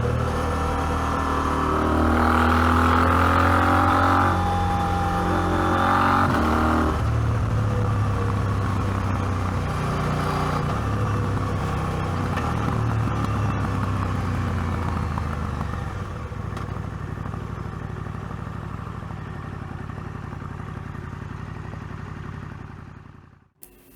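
KTM 790 Adventure's parallel-twin engine pulling hard on the climb, its pitch stepping up and down through gear changes for about the first seven seconds. It then runs lighter and quieter, fades away, and cuts out just before the end.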